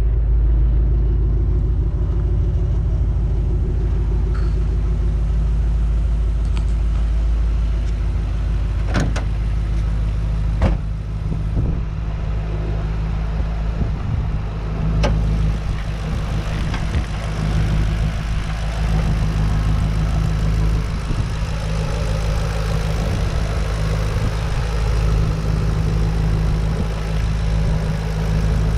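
Twin-turbocharged 4.6-litre V8 of a 2007 Ford Mustang GT with a Kenny Brown GT-4T kit, idling steadily, with a few short clicks around the middle.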